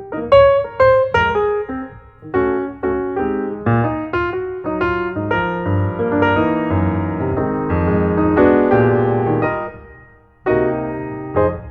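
Background piano music: notes played in quick succession, slowing into held chords, with a short pause about ten seconds in before the playing resumes.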